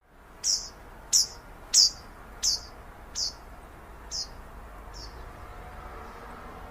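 A small songbird giving a series of seven sharp, high chip calls, evenly spaced about two-thirds of a second apart, growing fainter over the last three, over a steady outdoor background hiss.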